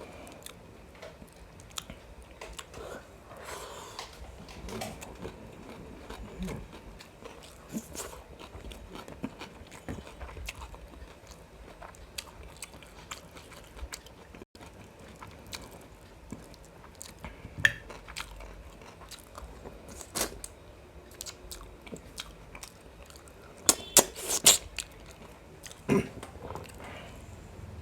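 A person chewing and biting a mouthful of biryani with mutton gravy close to the microphone, with sharp clicks now and then, loudest in a quick cluster near the end.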